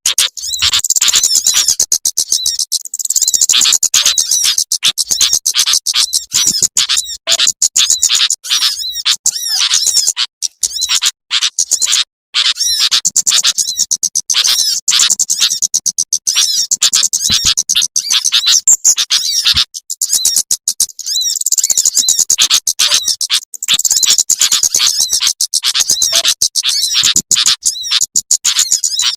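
Bird-lure recording of small songbirds, sunbirds among them: dense, rapid high-pitched chirps and trills, with short gaps about twelve and twenty seconds in.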